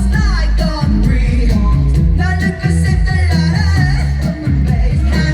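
Loud live pop song: a male vocalist singing over heavy, bass-driven backing music through a concert PA.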